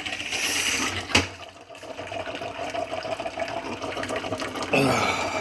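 Keurig coffee maker running with a steady hum while water hisses and sputters as it boils out of the machine. There is a sharp click about a second in and a louder rush of hissing near the end. The owner takes this for the brewer overheating and boiling or pumping its water out, which he fears could start a fire.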